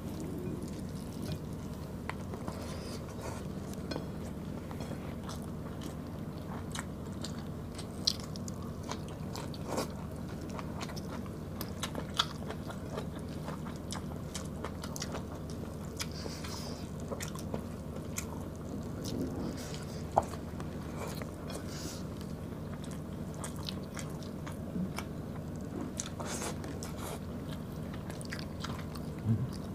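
Close-miked eating sounds of people eating rice and beef stew with their hands: wet chewing and mouth smacks, with scattered sharp clicks and fingers working the rice on the plates. A steady low hum runs underneath.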